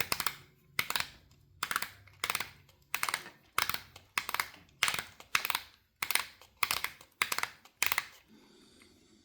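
Plastic winch crank on a toy blimp's base being turned by hand to wind its lines. Each turn gives a short rattle of plastic clicks, about one every two-thirds of a second, about a dozen in all, stopping about eight seconds in.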